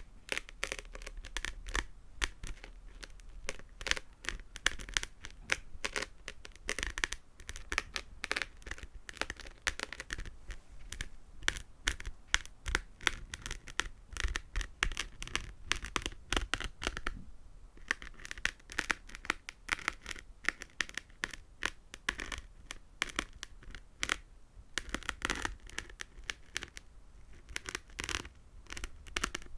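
Fingernails tapping and scratching on small hard objects for ASMR: a rapid, uneven run of sharp little clicks and scrapes, with a short lull a little past halfway.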